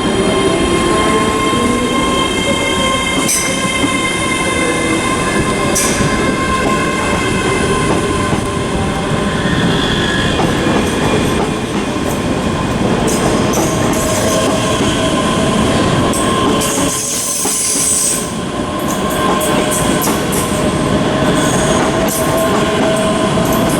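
ScotRail Class 385 electric multiple unit moving through the station, its running gear giving off several steady whining tones over a continuous rumble. It goes briefly quieter about seventeen seconds in.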